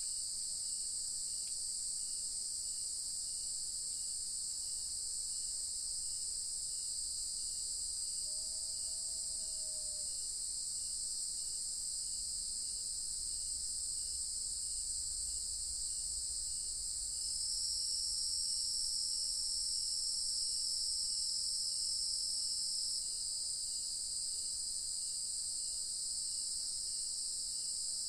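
Evening chorus of crickets and other insects: a steady, high-pitched trill with faint, even chirps about twice a second underneath. About halfway through, another high trill swells in on top for about six seconds and then stops.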